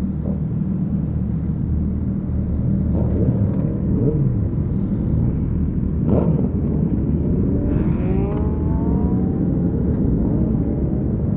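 Suzuki Hayabusa inline-four engine running on the move, a steady low rumble. Its pitch rises a few seconds in and again in the second half as the bike speeds up.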